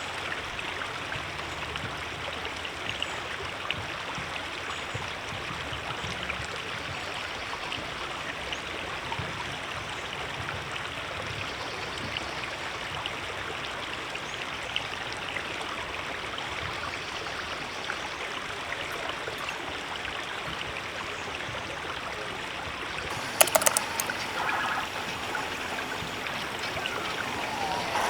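River water rushing steadily over rocks. A short cluster of sharp clicks or knocks comes near the end.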